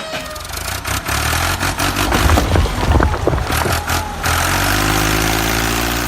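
Truck engine sound: a noisy, clattering stretch with many sharp knocks, then, about four seconds in, a steady low engine hum that rises slightly in pitch.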